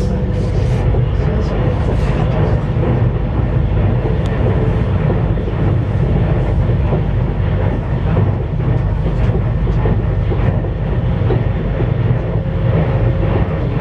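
CRH1A-A high-speed electric multiple unit running, heard from inside the passenger car: a steady low rumble with a faint steady whine that is clearer near the start and the end.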